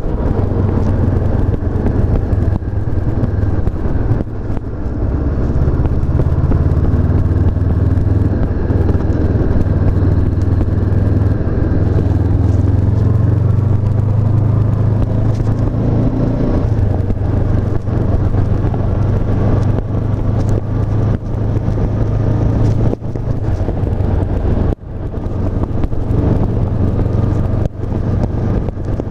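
Honda CB500F's parallel-twin engine running while the bike is ridden, its note holding steady and then shifting in pitch as engine speed changes. It has several brief dips in loudness, the sharpest about 25 seconds in.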